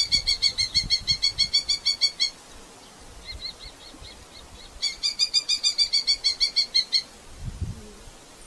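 Red-footed falcon calling a rapid, evenly repeated kew-kew-kew at about nine notes a second, in two runs of two to three seconds with a fainter, thinner run between them.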